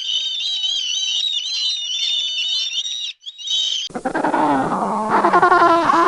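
High-pitched, continuous twittering of a bird or birds for about four seconds. After an abrupt cut, a louder animal's drawn-out calls come in, wavering and sliding in pitch, with more than one voice overlapping.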